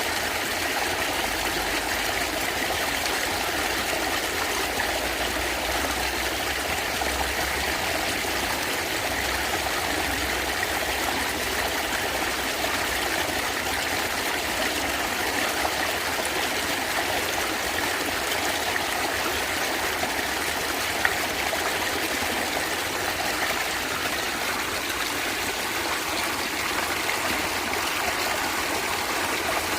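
A small stream of water gurgling and trickling steadily over stones, an even rushing with no breaks.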